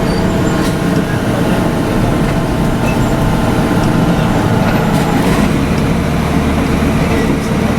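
Cabin sound of a Volvo B7RLE city bus under way, heard from the rear seat over its rear-mounted diesel engine: a steady drone with several held tones and a dense low rumble, a deeper hum coming in about five seconds in.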